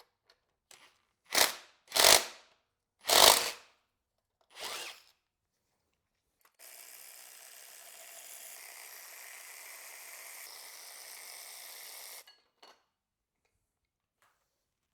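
Power tool working on the accessory-belt tensioner's bolt: four short bursts, the first three loud, then a steady run of about six seconds that stops abruptly.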